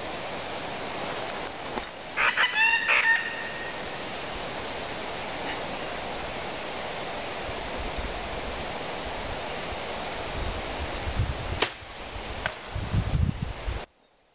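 Steady outdoor hiss of bush air, with a loud bird call of a few pitched notes about two seconds in and a faint high trill just after. Near the end a compound bow is shot, one sharp snap of the release, followed by some handling noise before the sound cuts off suddenly.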